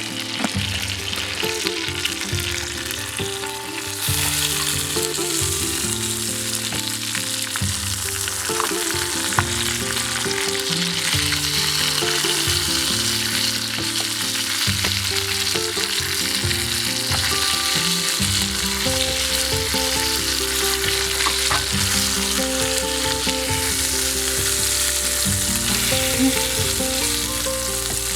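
Cornish game hen frying in a cast iron skillet, a steady sizzle that grows louder about four seconds in.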